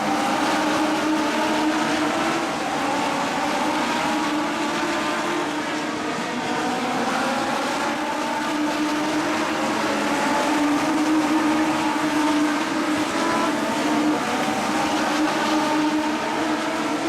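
A field of Legends race cars running on the track, their Yamaha motorcycle engines overlapping in a continuous high whine, the pitches of several cars rising and falling as they accelerate and lift.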